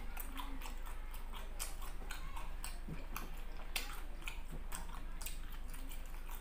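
Close-up eating sounds: a man chewing squid, with a run of irregular short wet mouth clicks.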